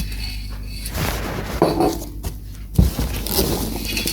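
Packaged supplies being handled and unpacked, with rustling and knocks of items set down, the loudest a thump near three seconds in, over a steady low electrical hum.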